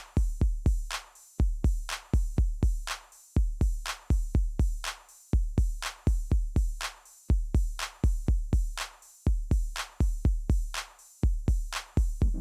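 Background music: an electronic drum-machine beat of deep kick-drum thumps in quick clusters with sharp snare-like hits, repeating about once a second.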